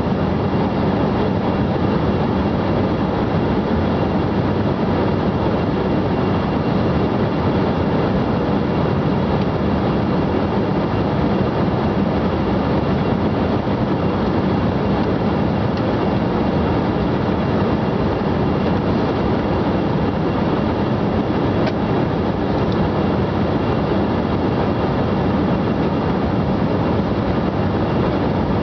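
Steady airliner cabin noise in flight: the even rush of engines and airflow, with a constant low hum underneath.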